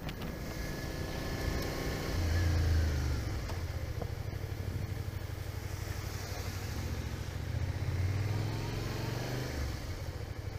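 Motorcycle engine heard from the rider's helmet camera, with wind noise. The engine pulses steadily and rises and falls in pitch twice: once a couple of seconds in, and again near the end.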